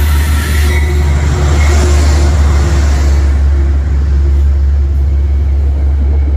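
A Metro-North commuter train's passenger coaches passing close along the platform, a loud steady rumble of wheels on rails. The hiss is brighter in the first few seconds, as the leading car goes by.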